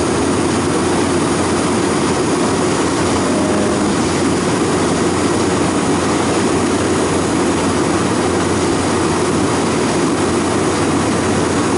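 Refrigeration condensing unit running steadily: the compressor and condenser fan make an even mechanical drone while the system is still short of refrigerant and being charged.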